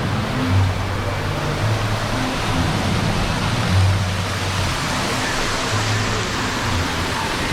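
Steady rushing water with music playing over it, its low bass notes coming and going every second or so.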